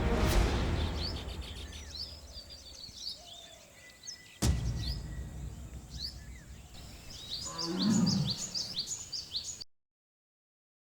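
Birds chirping and calling as music fades out. A sudden sharp crack with a deep rumble comes about halfway through. Near the end comes a big cat's roar, the loudest sound, about a second long, before the sound cuts off.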